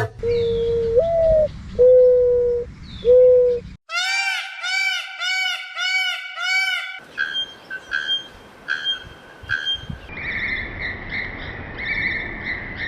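Calls of several different birds cut one after another: first three long, steady whistled notes, one of them stepping up in pitch; then a run of arched chirping notes, about two a second; then a series of short repeated calls; and near the end a buzzy, pulsing call.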